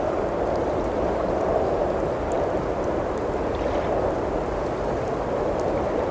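Steady blizzard wind rushing, with a wood fire crackling faintly in a few scattered small pops.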